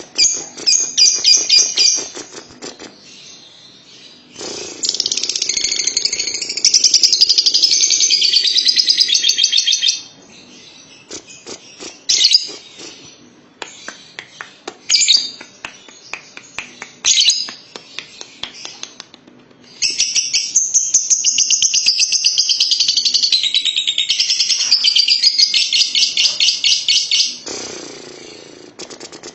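Lovebird singing its long 'ngekek': two extended bouts of rapid, high chattering trill, the first about five seconds long and the second about seven, with short bursts of chirps before and between them.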